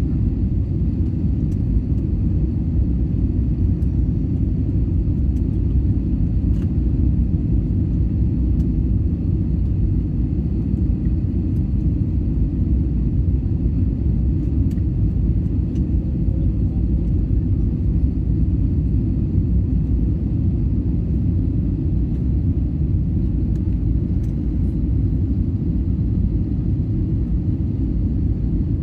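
Steady low rumble of an airliner's engines and airflow during a landing approach, heard from inside the cabin, even in level throughout.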